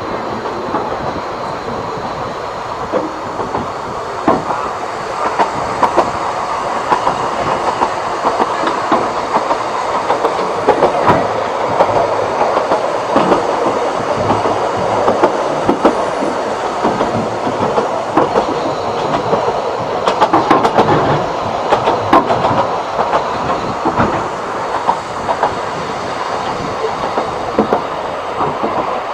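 Narrow-gauge railway carriage running along the track: a steady rumble with many irregular clicks and clatters from the wheels.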